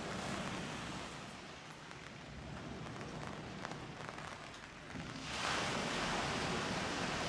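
Steady hiss of rushing noise with a few faint scattered ticks, jumping to a louder, brighter hiss about five seconds in.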